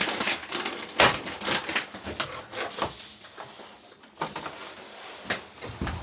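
Foil freeze-dried meal pouch being handled, crinkling and rustling with many sharp crackles and clicks, and a longer hissing crinkle about three seconds in.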